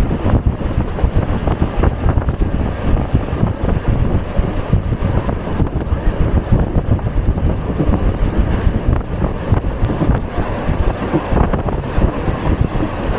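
Electric commuter train running along the track, heard from inside the carriage, with heavy wind buffeting the microphone at the open window.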